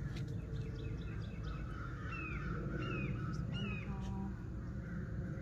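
A bird calling three times, about two-thirds of a second apart, each call a short falling note, after a quick run of fainter chattering notes in the first second and a half. A steady low rumble lies underneath.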